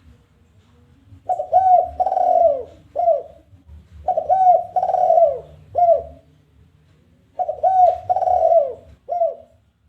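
Spotted dove (tekukur) cooing its challenging territorial song: three phrases about three seconds apart, each two short coos, a longer falling coo, then one short closing coo.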